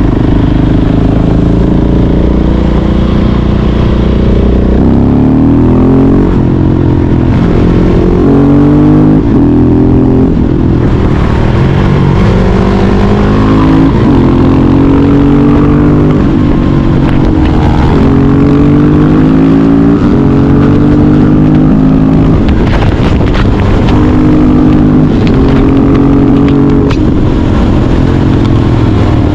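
Husqvarna 701 Supermoto's single-cylinder four-stroke engine through an aftermarket Yoshimura exhaust, loud. It runs at a steady idle for the first few seconds, then revs up again and again, the pitch rising and dropping back every second or two.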